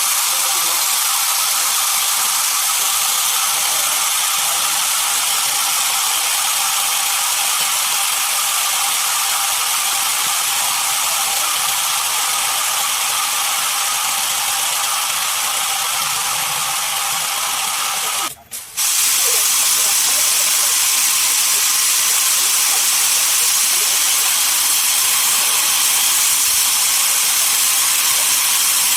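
Sawmill saw cutting through a dense desert redwood log: a steady, hissing noise, broken once by a brief dropout about two-thirds of the way through.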